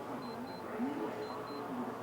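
A high electronic beep sounding in quick pairs, about one pair a second, over faint background voices.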